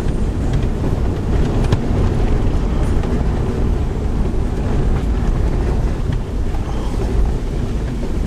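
Car driving along a concrete road: steady engine and tyre rumble.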